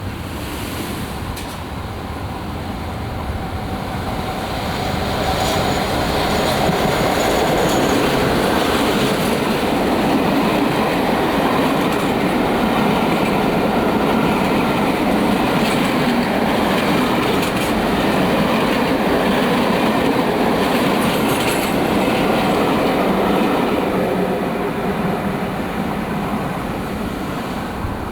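A passenger train passing close by on the sea-wall line. Its running sound builds over the first few seconds, holds loud for most of the time, and fades near the end.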